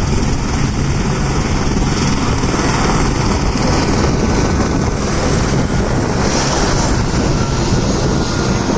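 Helicopter running close by: a steady, loud rotor and engine noise.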